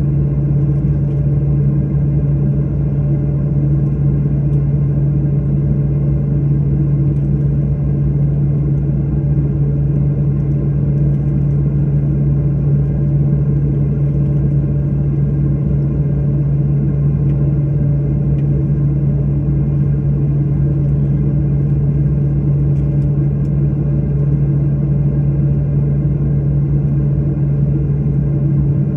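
Steady low drone of an airliner heard from inside the cabin: the jet engines and air system running evenly, with no rise in pitch or level.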